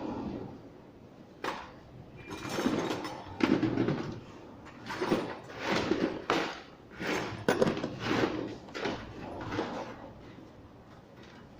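Automatic sliding door panel being moved along its track, a series of rumbling slides with a sharp knock about a second and a half in and another about halfway through.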